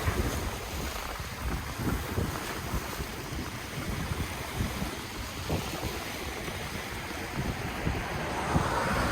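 Ocean waves washing on the shore, with wind buffeting the microphone in low rumbles. A wave surges louder near the end.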